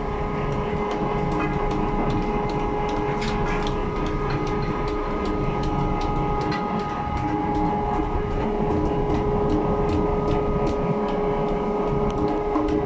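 Lifeboat davit winch running steadily as it hauls in the fall wire: an even motor hum with a quick, regular clicking of about four clicks a second.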